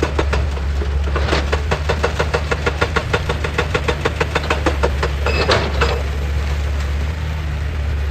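Excavator's diesel engine running steadily under a hydraulic rock breaker hammering rapidly, about nine blows a second, from about a second in until about five seconds in. A brief high squeal follows, and one more knock comes near the end.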